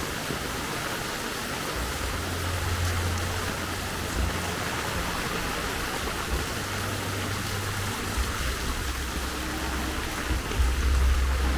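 Steady rain falling, with the low rumble of motor vehicles passing, swelling about two seconds in and again near the end.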